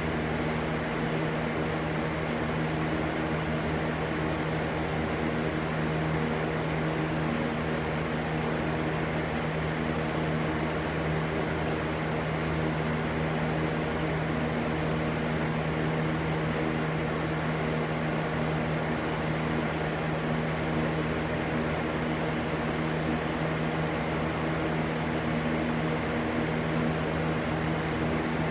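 Steady white noise: an even, unbroken rush with a constant low hum under it, unchanging throughout.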